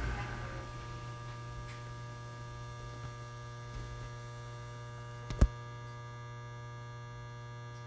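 Steady electrical hum of a Tobu 20400-series electric train car standing at a station, with one sharp knock about five and a half seconds in.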